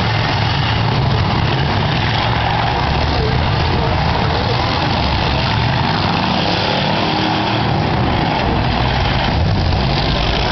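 Demolition derby cars' engines running loud and unbroken, a dense engine rumble, with people's voices mixed in.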